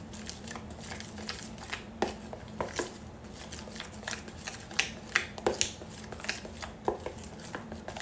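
A utensil clicking and scraping against a bowl while stirring pancake batter, in irregular taps several times a second.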